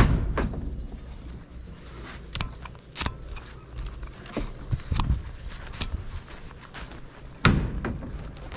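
A series of irregular knocks and clunks, the loudest right at the start and another about seven and a half seconds in, with smaller ones between.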